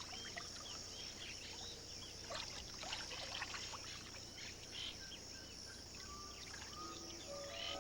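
Steady high-pitched insect drone with many brief chirping calls over it.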